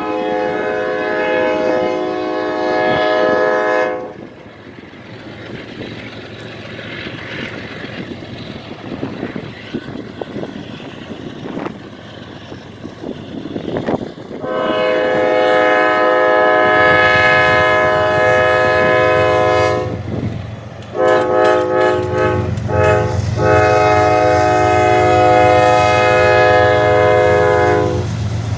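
CSX freight locomotive's multi-chime air horn sounding. A long blast ends about four seconds in. After about ten seconds of quieter rolling rail noise comes another long blast, a few short toots, and a final long blast, while the diesel engine rumble grows louder as the train approaches.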